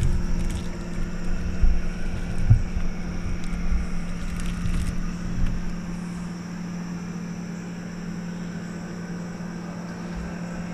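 An engine running steadily at one pitch, with low thumps and bumps over the first half that settle into a smooth run.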